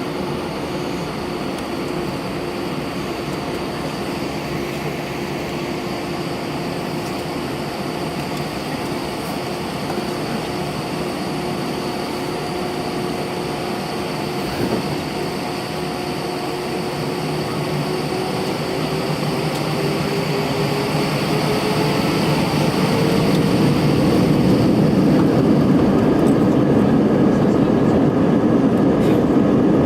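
Airbus A319's twin jet engines heard from inside the cabin, running with a steady hum and whine; about two-thirds of the way through they spool up, the whine rising in pitch and the sound growing louder.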